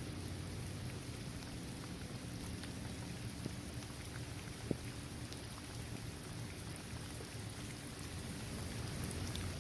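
Steady rain falling on a hard court surface, trees and grass, with a dense patter of individual drops and one sharper drop tick about halfway through.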